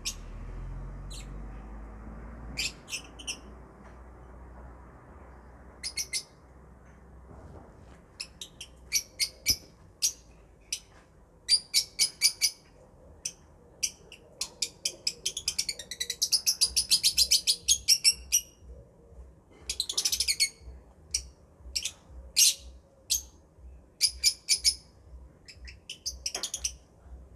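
Small pet parrots, sold as love birds, chirping in short sharp calls that come in quick clusters. There is a dense run of rapid chattering about halfway through, over a faint low hum.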